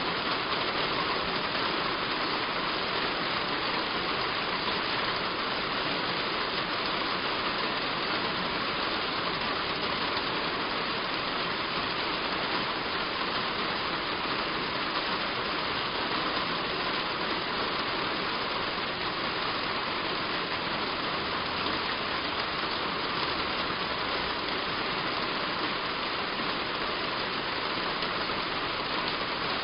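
Heavy rain falling steadily on a roof: an even hiss that does not change.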